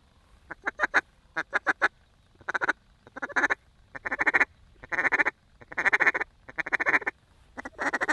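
Mallard duck call blown in a rhythmic string of short bursts of rapid quacking chatter, a feed-call style, to draw a passing flock down to the decoys.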